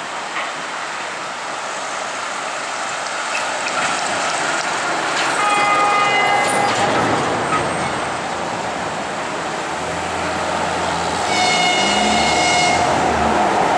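Passenger train hauled by an EP1M electric locomotive running past, with steady rolling noise growing louder. The locomotive sounds its horn twice: a blast about five seconds in and a higher one near eleven seconds, each lasting about a second and a half.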